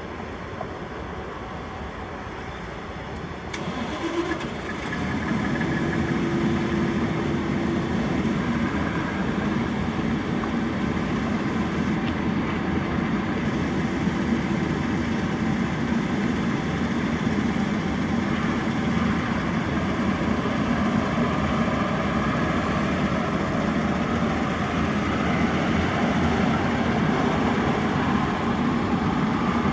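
Fire truck engine running steadily, growing louder about four to five seconds in.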